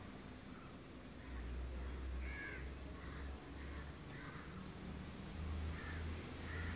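Distant birds calling: a string of short, faint calls repeated irregularly, about one or two a second, over a low rumble.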